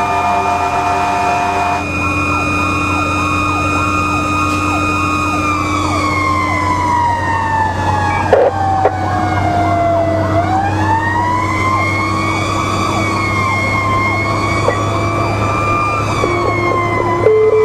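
Fire engine running on an emergency response with its sirens sounding: a long siren tone slowly falls in pitch about halfway through and then winds back up, over a rapid yelping siren and the engine's steady drone. Steady horn blasts sound near the start and again at the very end.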